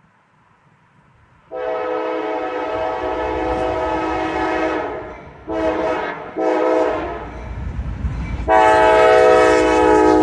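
Diesel locomotive's multi-note air horn sounding a long blast, two short blasts, then another long blast, over the low rumble of an approaching train.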